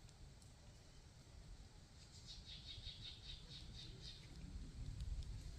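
A bird calling a rapid series of about ten short high notes, about five a second, starting about two seconds in and lasting two seconds, over a faint low rumble.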